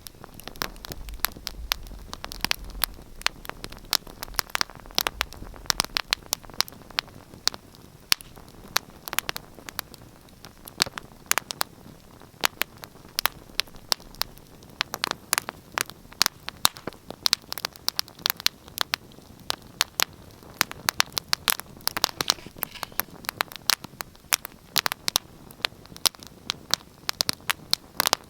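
Wood fire crackling in a fireplace: frequent irregular sharp pops and snaps over a soft steady hiss of burning.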